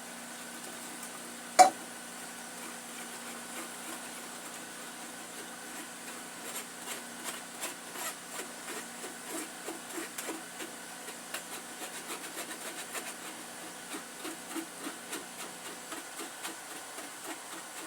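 Kitchen utensils knocking and tapping: one sharp loud knock about a second and a half in, then light, irregular tapping and scraping several times a second from about six seconds on, over a steady hum.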